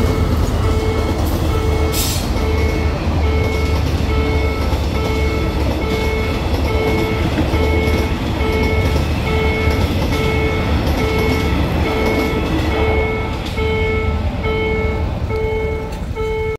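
Passenger train rumbling over a level crossing, the wheels on the rails giving a heavy low rumble, with a sharp clank about two seconds in. The crossing's warning signal sounds in steady pulses about twice a second throughout, and the train noise eases near the end as the last carriage clears the crossing.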